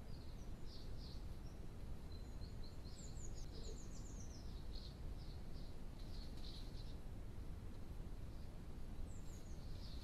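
Small birds chirping and twittering: quick, high, downward-sliding notes in busy clusters, thickest through the middle and again near the end, over a steady low rumbling hiss.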